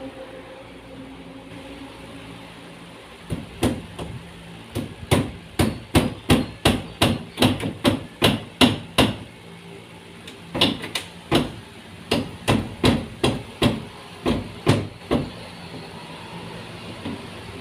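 Hammer blows in carpentry work: two runs of quick, even strikes, about three a second, with a short pause between them.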